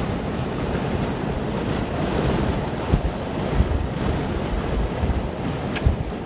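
Strong storm wind blowing across the microphone, a steady rush with a few low thumps from gusts.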